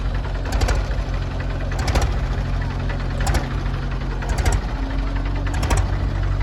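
Heavy diesel engine running steadily, with short clusters of sharp knocks recurring about every second and a half.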